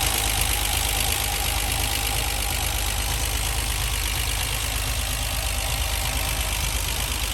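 Reliant Scimitar GTE SE5a's Ford 3.0 litre V6 engine idling steadily, warm and running nicely.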